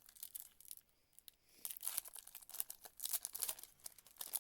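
A 2024 Panini Prizm football retail pack's wrapper being torn open and crinkled. There are scattered crinkles at first, then a dense run of crackling from about a second and a half in.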